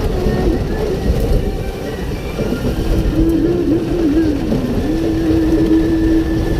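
Steady low rumble and road noise of a moving vehicle heard from inside, with a faint wavering pitched tone over it in the second half.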